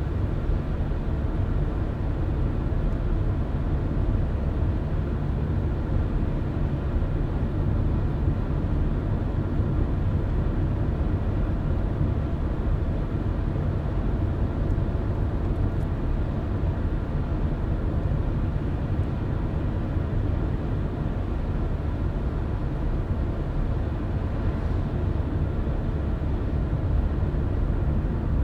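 Car driving at a steady speed: a continuous low rumble of engine and tyres on the road that stays unchanged throughout.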